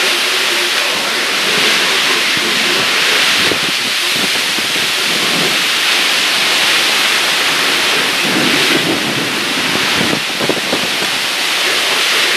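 Heavy rain pouring down steadily during a thunderstorm, with low thunder rumbling in the second half.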